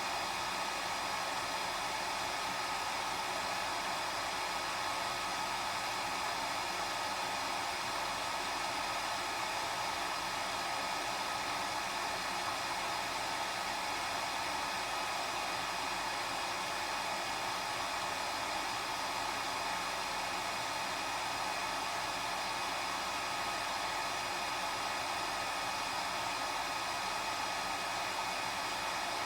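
Hair dryer running steadily: an even blowing hiss with a faint motor whine, unchanging throughout.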